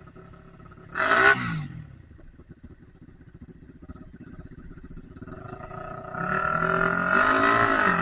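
Trail motorcycle engine running low, with a short throttle blip about a second in and then a longer rev that builds and holds before dropping off suddenly near the end.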